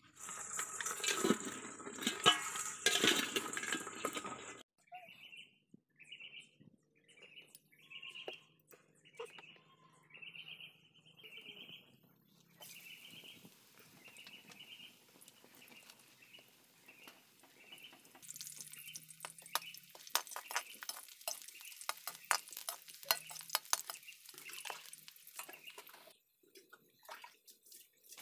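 Sliced garlic frying in oil in an iron wok, sizzling, with dense crackling in the second half. A loud rushing noise fills the first few seconds, and short chirps repeat about once a second in between.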